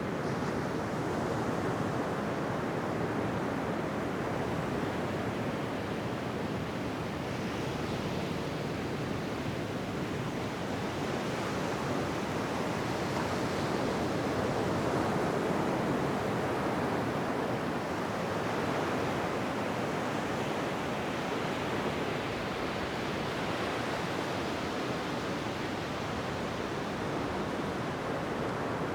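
Ocean waves washing onto a shore in a steady, continuous surf wash that swells and eases gently.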